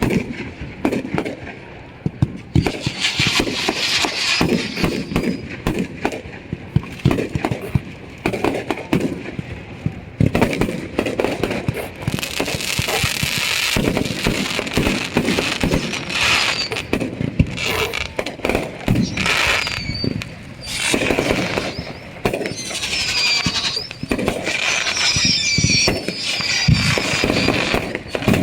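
Fireworks and firecrackers going off in rapid, irregular pops and crackles. In the second half several high whistles glide up and down in pitch.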